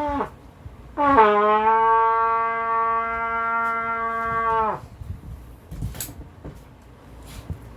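Trumpet sounding one long steady note for about four seconds, dipping slightly in pitch as it starts, just after the end of a shorter note; a few faint clicks follow.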